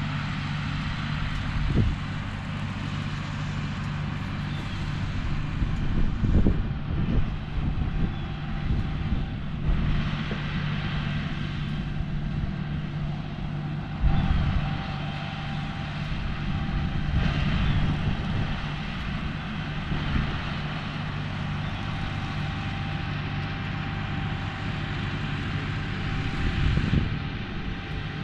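John Deere 5045E tractor's three-cylinder diesel engine running steadily under load while driving an MX8 rotary cutter through brush, with a few short louder knocks and rattles along the way.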